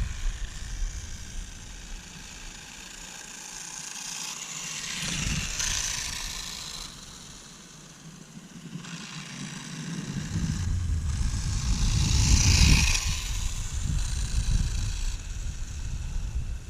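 Kraft Elect Rider RC motorcycle running on asphalt, its brushed electric motor and tyres making a high whine and hiss that swells and fades twice as it passes, about five seconds in and again near twelve seconds. A low rumble sits underneath, strongest at the start and in the second half.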